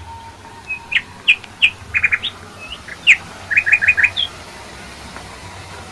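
A small songbird chirping: a run of short, high chirps, some in quick groups of three and four. They stop a little past four seconds in.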